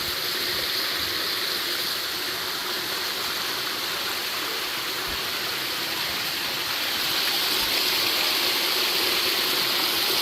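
Water falling and rushing over rock at a small waterfall, a steady rush that grows a little louder about seven seconds in.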